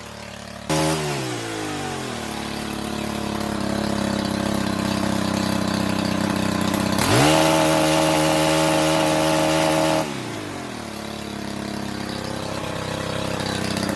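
Gas pole saw's small two-stroke engine running. It is blipped about a second in and falls back to a steady lower speed, then revs up and holds high for about three seconds in the middle before dropping back down.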